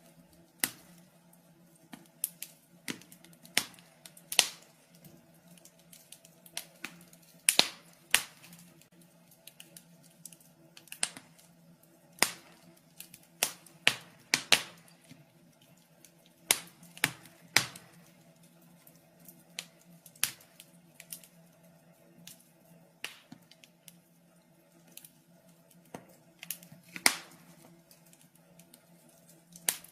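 Wood fire in a fireplace crackling: sharp, irregular pops and snaps, some much louder than others, over a faint steady low hum.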